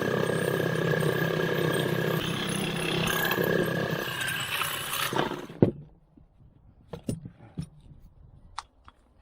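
A motor-driven machine runs steadily with a constant whine over a low hum, then shuts off abruptly about five and a half seconds in. A few light metallic clinks follow.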